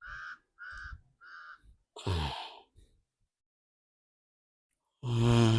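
Three short, evenly spaced caw-like calls in quick succession, then a brief call falling in pitch about two seconds in. Near the end comes a louder low, steady voiced sound.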